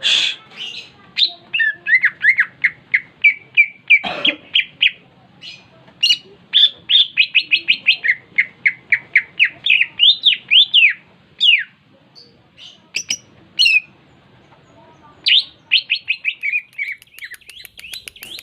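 Songbird singing loud, fast runs of repeated chirping notes, with a short pause a little past the middle before it starts up again.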